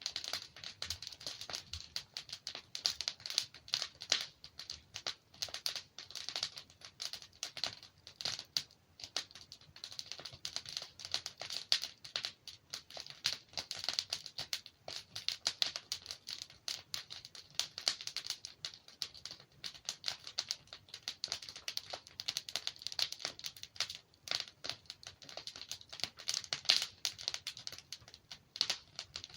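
Wood fire crackling and popping, a dense irregular stream of small snaps with occasional louder pops.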